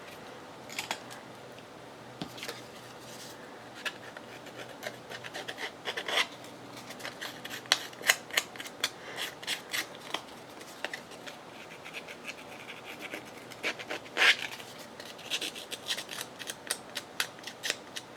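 Scissors cutting paper: a long series of short snips, coming quicker near the end.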